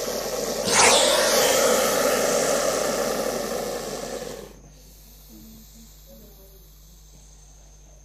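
Snake hissing: a loud, breathy hiss that swells sharply about a second in and stops after about four and a half seconds.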